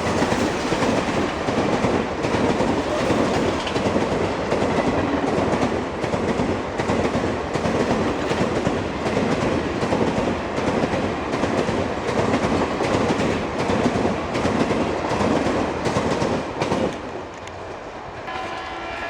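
An Indian Railways express train passing through at speed, its coaches rumbling with a fast run of wheel clicks over the rail joints. The sound drops away sharply about two seconds before the end as the last coach goes by, and a faint horn starts just after.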